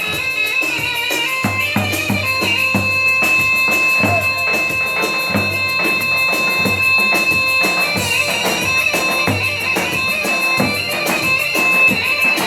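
Traditional folk music: a shrill reed wind instrument holds long steady notes over regular drum beats.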